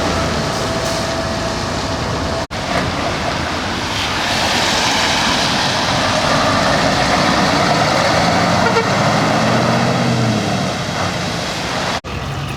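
Large trucks driving out one after another with their engines running over a steady wash of traffic noise. Around eight to ten seconds in, an engine note rises and falls. The sound cuts out abruptly for an instant twice, about two and a half seconds in and near the end.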